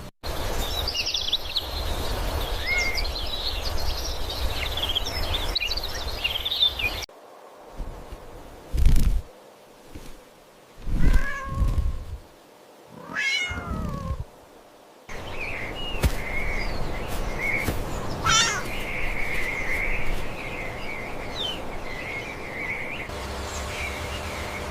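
Cat and kitten meowing. Thin, high-pitched kitten mewing comes first, then several separate, louder meows that rise and fall in pitch, then more steady high cries. The background noise changes abruptly twice.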